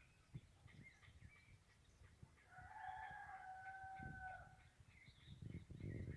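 Rooster crowing once, faintly, one long call of about two seconds starting a couple of seconds in, with small birds chirping.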